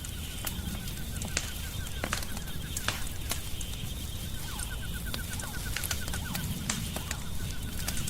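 Wood fire crackling with scattered sharp pops over a low rumble, while a rapid, even run of high chirps repeats in stretches of a few seconds behind it.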